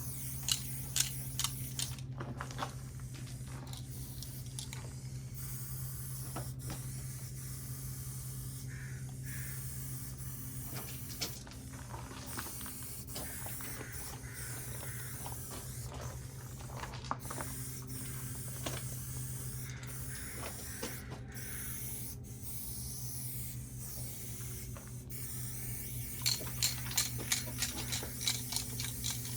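Aerosol spray paint cans hissing in repeated passes over a steady low hum. Runs of quick clicks come in the first couple of seconds and again near the end.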